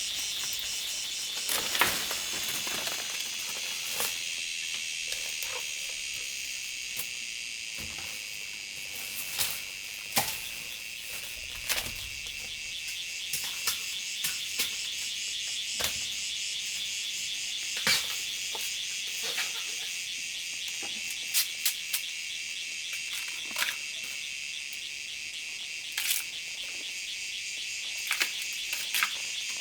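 Steady, dense chorus of forest insects, a high shrill drone, with irregular sharp knocks and snaps scattered through it.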